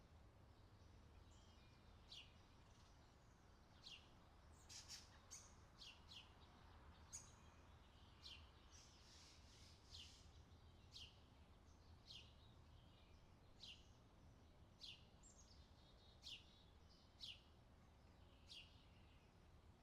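Faint outdoor summer ambience of birds chirping: short, quick, falling chirps repeat about once a second, over a low steady hum.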